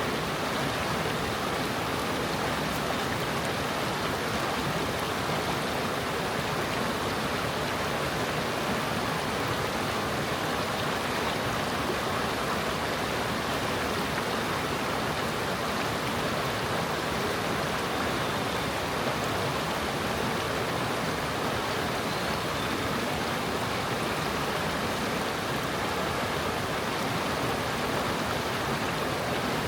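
Forest stream babbling over stones: a steady, even rush of flowing water.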